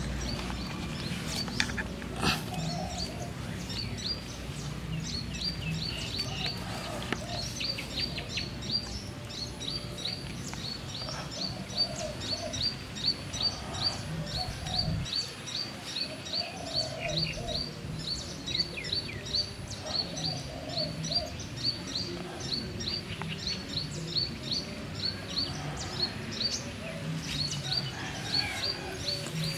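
A bird chirping in a long, even series of short high chirps, about two or three a second.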